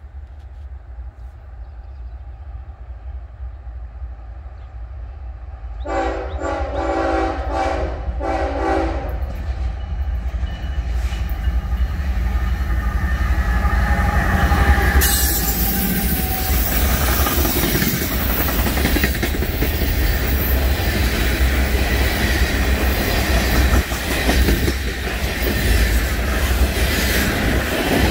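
Norfolk Southern GE ES44AC heritage diesel locomotive approaching and sounding its horn for about three seconds. It then passes close with its engine running and wheels rumbling, growing louder, and is followed by the wheels of a string of ballast hopper cars rolling past.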